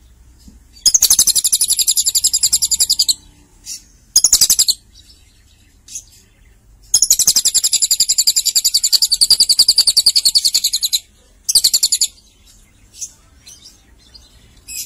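Lovebird singing in long, very fast high trills, the cililin-like style of song. There are two long trills of several seconds each, with short bursts between and after them.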